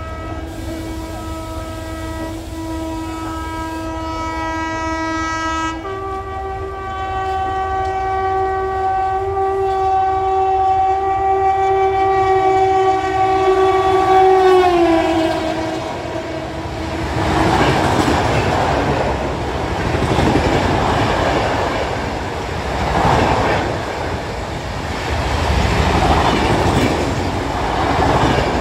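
A WAP-7 electric locomotive sounds its horn in a long blast as the express approaches at about 115 km/h. The horn's pitch steps up about six seconds in and slides down as the locomotive passes about fifteen seconds in. The coaches then rush past with a loud, rhythmic clatter of wheels over the rail joints.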